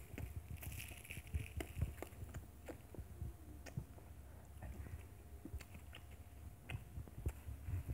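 Mouth noises close to the microphone: chewing, lip smacks and scattered small clicks, with soft low thuds.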